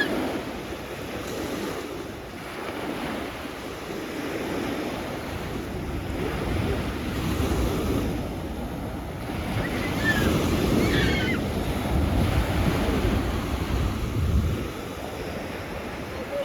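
Sea waves washing onto the beach, the surf swelling and easing, with wind buffeting the microphone.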